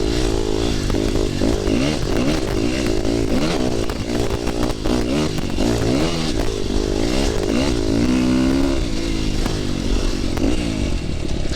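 450 dirt bike engine revving up and down again and again, about once a second, as it is ridden through a run of deep whoops, with knocks and clatter from the bike over the bumps.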